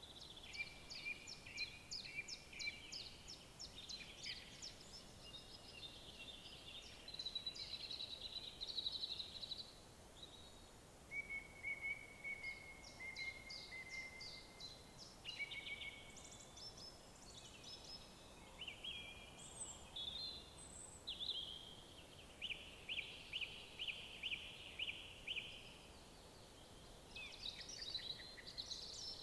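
Several songbirds singing at once, a dense mix of quick trills, repeated chirps and short whistles, over faint steady background noise.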